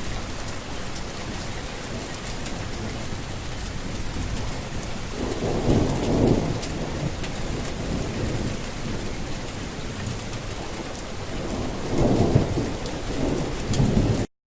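Steady heavy rain, with a roll of thunder about five seconds in and another near the end, cutting off suddenly.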